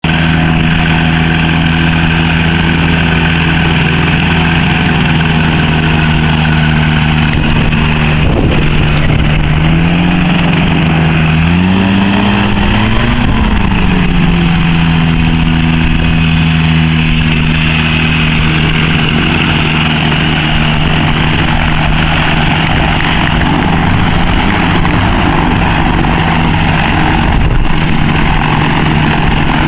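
Flexwing microlight's engine running steadily at idle, revving up briefly about ten seconds in, its pitch rising and then falling back to a steady idle.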